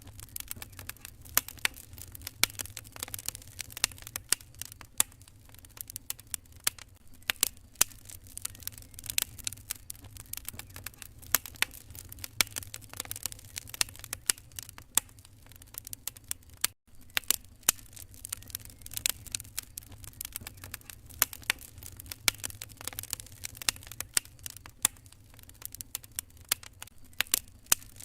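Wood fire crackling in a fireplace: irregular sharp snaps and pops over a low, steady rumble. The sound cuts out for an instant about two-thirds of the way through.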